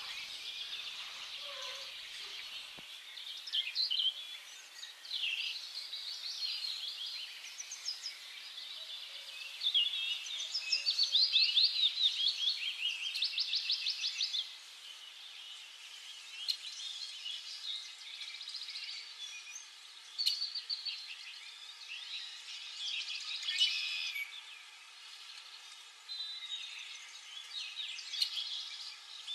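Cage birds chirping and twittering over steady background noise, with a busier, louder run of rapid repeated chirps about ten to fourteen seconds in.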